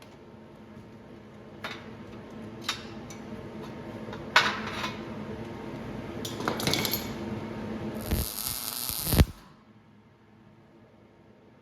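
Welding on a steel transmission crossmember: a few sharp metallic clinks, then short bursts of welding arc crackle, the longest lasting about a second and cutting off sharply about nine seconds in.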